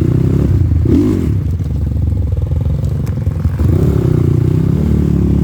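Off-road motorcycle engine running at low revs over rough ground, with brief rises in revs about a second in and again near four seconds, and the occasional clatter of the bike.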